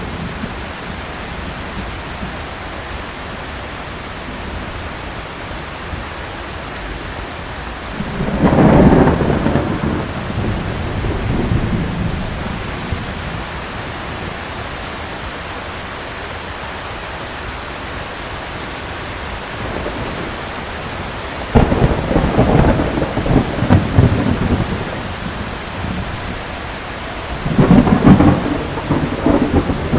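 Steady heavy rain with three rolls of thunder: one about eight seconds in, one breaking suddenly about twenty-one seconds in, and one near the end.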